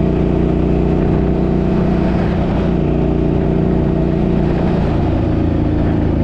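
A Suzuki's engine running while driving, a steady drone under road noise, its pitch drifting slightly about two and a half seconds in and again near five seconds.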